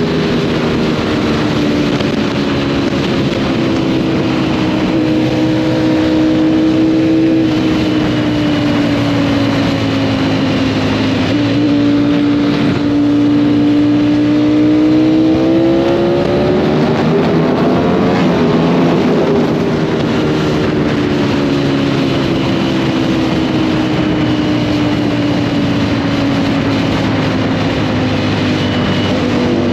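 Sport motorcycle engine running on the move. Its pitch sinks slowly, rises about halfway through as the bike accelerates, then eases off and falls again. Wind rush runs underneath throughout.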